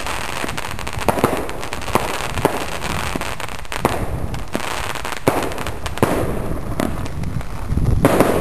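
A batch of fireworks going off together: an irregular run of sharp firecracker bangs and crackles over a steady hiss.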